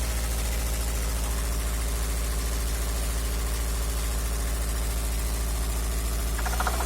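A16A1 car engine running steadily at low revs with a fast, even pulse. The owner is chasing a knock in this engine, which he puts down to the second cylinder.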